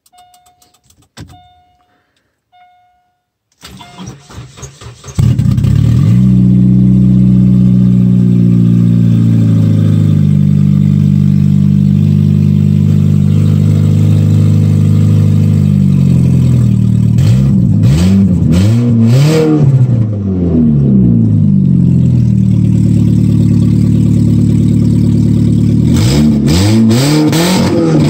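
A few short beeps, then a 4-cylinder derby car engine with no exhaust, open at the straight manifold, cranks, catches about five seconds in and runs loud and raw. It is revved up and back down twice, once in the middle and again near the end.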